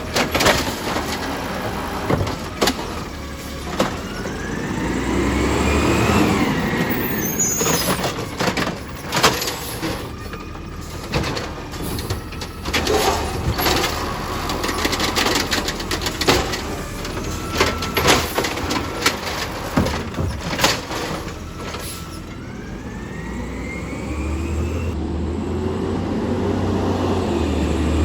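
Garbage truck at work: the diesel engine runs and revs up twice, with repeated sharp clanks and bangs from the bins and loading gear.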